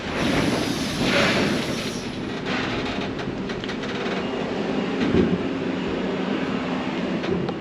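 Steady heavy-vehicle rumble, with a short hiss about a second in.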